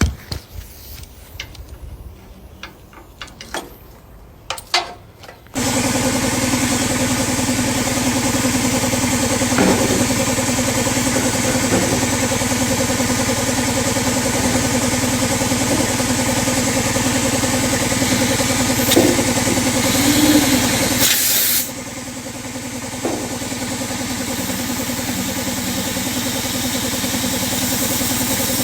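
Drilling into the metal fuel tank with a hole saw while an air blower clears the chips. A few handling clicks come first, then a steady loud mechanical run starts suddenly about five seconds in. Near the end it drops abruptly to a quieter steady running sound that slowly rises.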